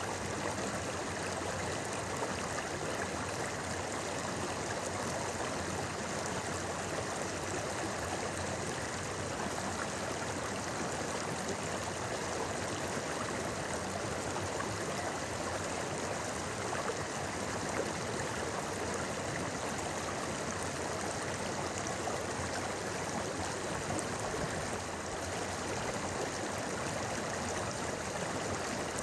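A shallow river running over stones, a steady rushing and babbling of water.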